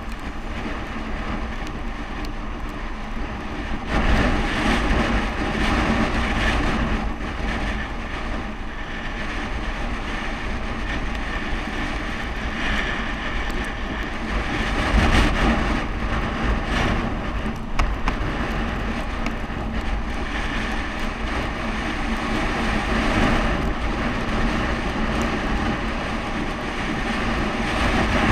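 Wind buffeting the microphone and road noise from a bicycle coasting downhill: a steady rushing rumble that swells louder a few times.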